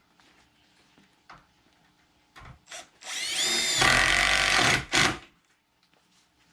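Power drill driving a screw: the motor whine rises in pitch as it spins up, holds for about two seconds, then gives one short second burst as the screw is run home. A few light knocks of handling come before it.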